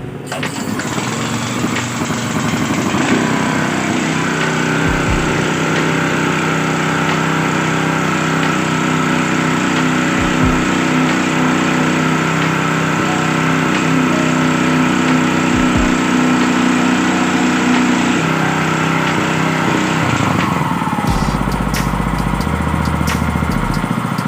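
Small 3x3 gasoline engine running steadily. It speeds up about three seconds in, holds an even pitch, then slows with a falling pitch near the end.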